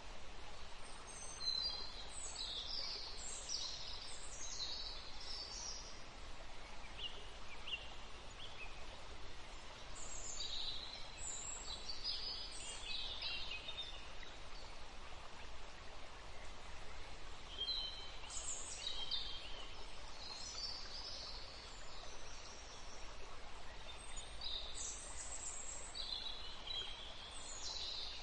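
Birds chirping in four short spells of song over a steady hiss.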